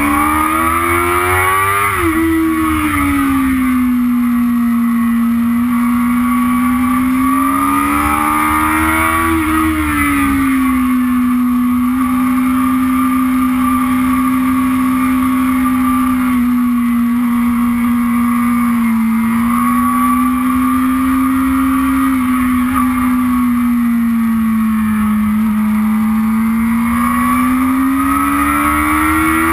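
Yamaha YZF-R6's inline-four engine running hard under the rider, heard from onboard at track speed, with a steady rush of wind noise. The engine pitch climbs in the first two seconds and drops back, climbs again around nine seconds in, then holds fairly steady through the middle before dipping and rising once more near the end.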